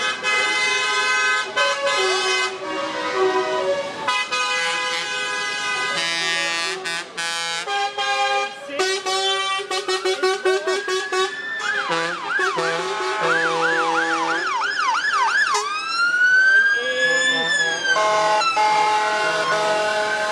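Lorry air horns blaring, several at once at different pitches, some held and some in quick repeated toots. Past the middle an emergency vehicle's siren joins in, first a fast yelp, then a slower rising and falling wail, over the horns.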